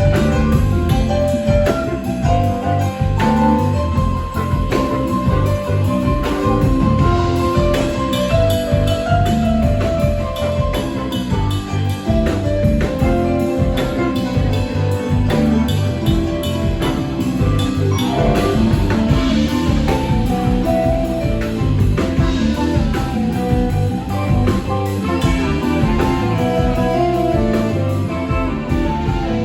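Live rock band playing an instrumental passage with electric guitar, bass and drum kit keeping a steady beat.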